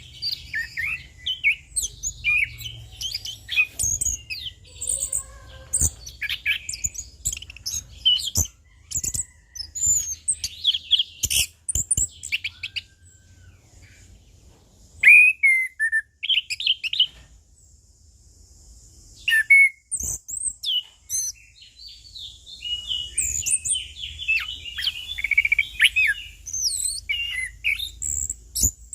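Orange-headed thrush singing a long, fast run of varied chirps, trills and whistles, broken by two short pauses about halfway through.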